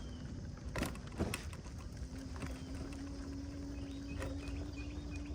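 A steady motor hum that starts about two seconds in and rises slightly in pitch, over a constant low rumble of wind on the microphone, with a couple of knocks about a second in.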